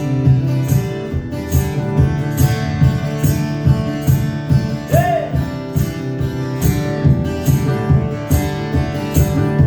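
Acoustic guitar strummed in a steady rhythm, playing a song's instrumental introduction.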